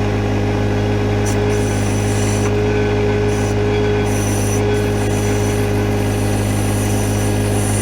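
John Deere 1025R compact tractor's three-cylinder diesel engine running steadily while it works the backhoe, with a steady higher tone over the engine and a hiss that comes and goes.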